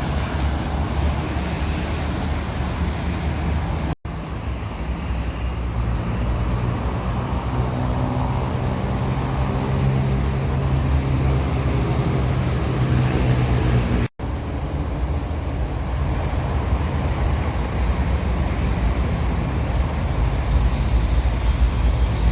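A motor engine running steadily under a heavy low rumble with wind noise, as if travelling. The sound cuts out abruptly twice, about 4 and 14 seconds in.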